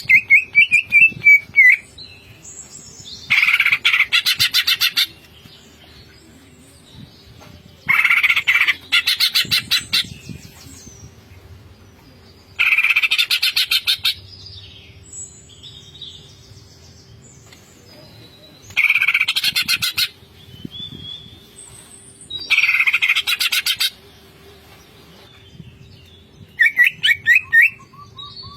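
Cucak ijo (green leafbird) singing in loud bursts of rapid, rattling repeated notes. Each burst lasts about one and a half to two seconds and comes every four to five seconds, with softer chirps and short whistles between them. A faint steady hum lies underneath.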